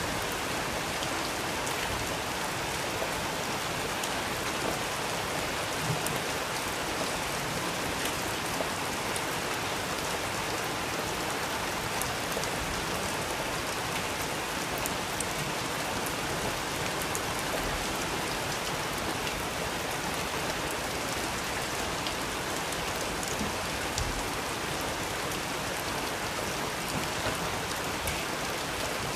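Steady rain: an even hiss with scattered small drop taps.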